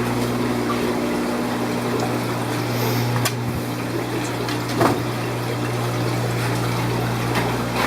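Steady hum and water rush of aquarium pumps and filtration running, with a couple of light clicks about three and five seconds in.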